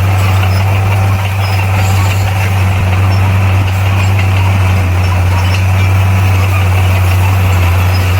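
Bulldozer's diesel engine running steadily with a deep, even hum that holds one pitch and does not rev up or down.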